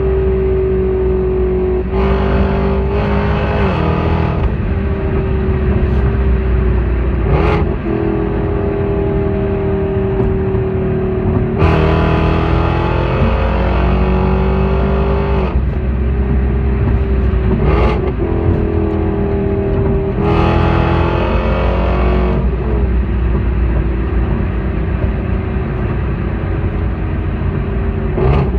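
Car engine running continuously through its exhaust, a steady loud drone that shifts in pitch a few times, with a few short sharp pops.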